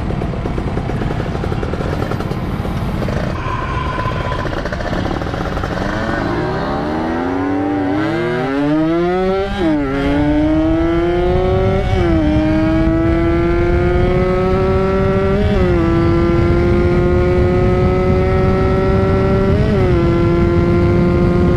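Two-stroke motorcycle engine, a Yamaha RX-King, at hard throttle accelerating up through the gears. The engine note climbs steeply, then dips briefly at each upshift, about ten, twelve, fifteen and twenty seconds in, and each gear pulls longer than the one before.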